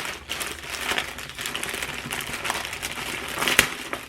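Packaging crinkling and crackling as a package is handled and unwrapped, with one sharper, louder crackle near the end.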